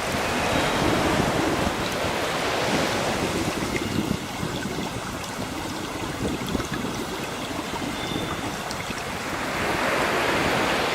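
Ocean surf: waves breaking and washing onto a shore, swelling about a second in and again near the end. Faint short bird calls sound over it.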